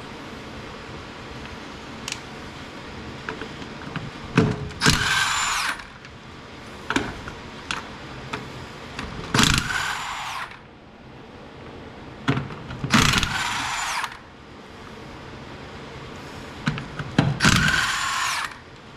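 Power impact wrench spinning the lug nuts off a truck's front wheel in four bursts of about a second each, with light metal clinks of nuts and socket between them.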